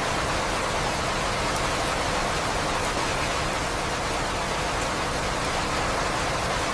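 Steady rain falling, an even hiss with no gaps or changes.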